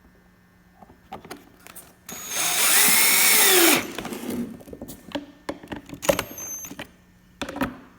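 Power drill running for about a second and a half, driving in a screw that holds the screen onto a new engine air filter; its pitch sinks as it stops. A few light clicks and knocks follow.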